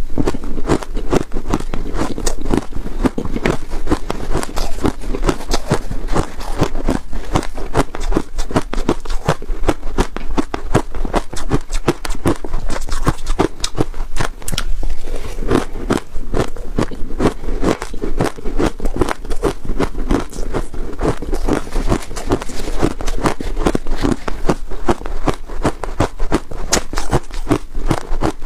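Freezer frost being bitten and chewed: loud, dense crunching and crackling of packed ice crystals, one crunch after another without a break.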